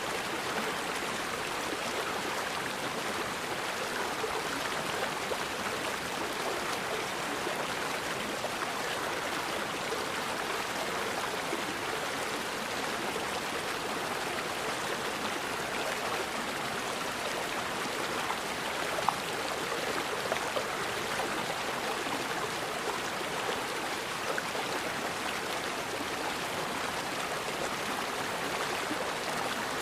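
Forest river flowing over rocks in a steady, even rush of water. A single brief click stands out about two-thirds of the way through.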